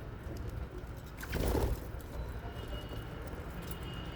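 Aviary budgerigars and lovebirds: a short loud burst of sound about a second in, then a thin steady high note through the second half, over a low background rumble.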